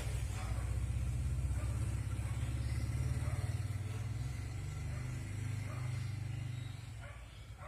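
A low, steady engine rumble with a fast even pulse, easing off near the end.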